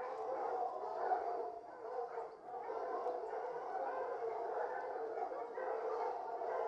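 Dog barking and howling, with the sound running on without clear pauses.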